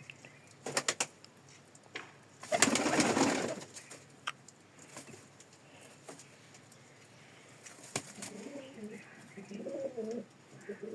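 Domestic pigeons cooing softly over the last few seconds, with a few sharp clicks about a second in and a loud rustling burst lasting about a second around three seconds in.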